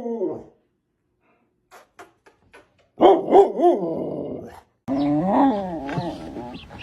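A dog vocalising: three short barks about three seconds in, then long, wavering howling calls. The first few seconds are quiet apart from a few faint clicks.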